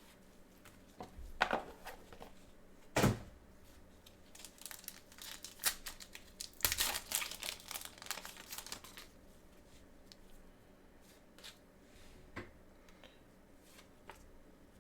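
Trading card packaging being opened by hand: a couple of sharp knocks in the first few seconds, then a few seconds of wrapper crinkling and tearing, then quieter handling of the cards.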